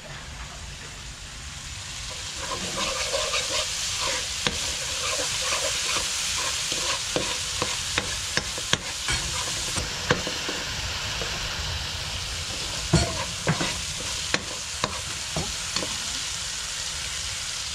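Curry base of garlic paste, green seasoning and garam masala frying in a pot with a steady sizzle that builds over the first couple of seconds, while a spoon stirs it and scrapes and knocks against the pot at irregular moments, loudest about 13 s in.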